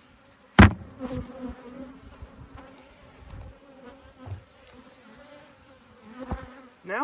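Honeybees buzzing steadily in a dense swarm around an opened hive. A sharp knock about half a second in is the loudest sound, followed by a few lighter knocks.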